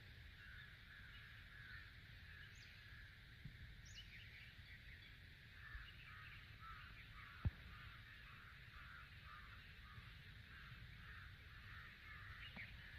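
Faint chirping of birds, a continuous chatter of short high calls, with one sharp click about halfway through.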